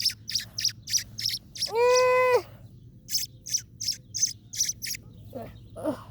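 A bird chirping, short high chirps at about three a second in two runs. About two seconds in comes a louder, drawn-out held call lasting under a second.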